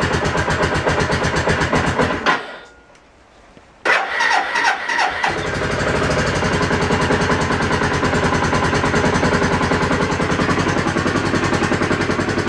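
Suzuki GZ250 single-cylinder engine running on choke during a cold start. It dies away about two seconds in, then after a short quiet it fires again unevenly and settles into a steady, even idle.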